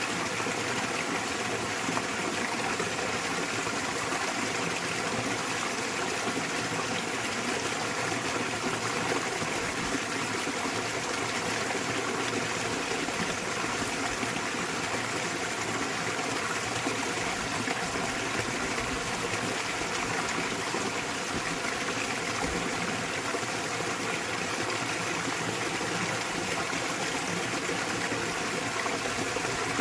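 Small waterfall splashing into a mountain stream, a steady, even rush of water.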